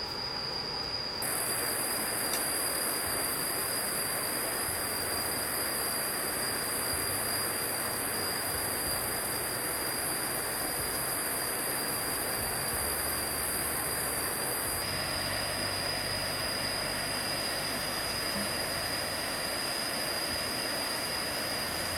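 A steady, shrill, high-pitched drone of jungle insects, with one thin high tone beneath it, over the even rush of a flowing stream. The shrill layer comes in sharply about a second in and shifts slightly in pitch about two-thirds of the way through.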